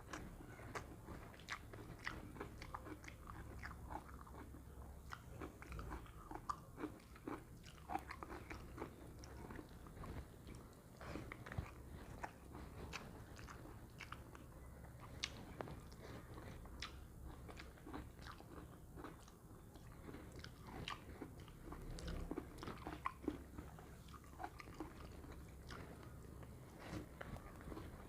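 A person eating a meal: faint, irregular chewing with small wet clicks and crunches, several a second.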